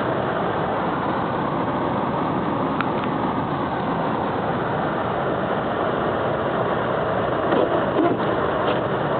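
Car driving on a snowy road: a steady mix of engine and road noise heard from inside the cabin, with no change in engine speed.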